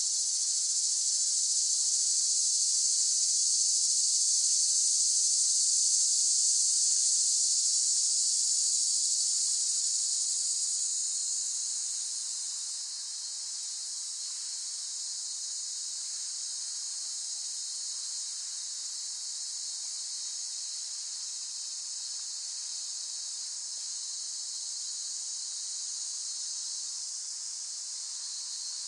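Cicadas droning in a dense, steady, high-pitched chorus, louder for about the first ten seconds, then easing down to a lower, even level.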